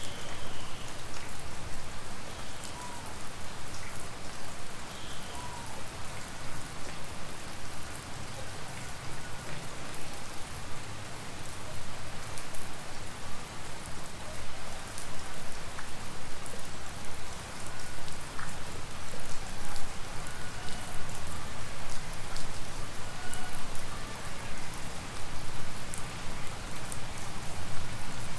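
Steady tropical rain: an even hiss of rainfall with many separate drops tapping close by.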